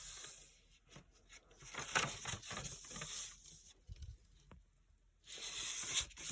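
A sheet of origami paper being folded and creased by hand: soft crinkling and rubbing in irregular spurts, with a pause of about a second and a half past the middle.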